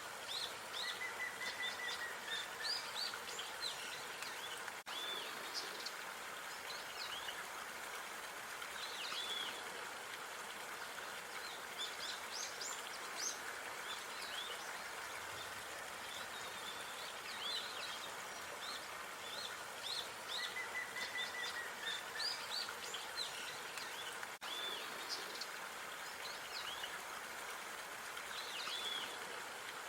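Outdoor park ambience: small birds chirping and giving short high calls, with an occasional brief trill, over a steady background hiss of distant noise. The sound cuts out for an instant twice, about 20 seconds apart.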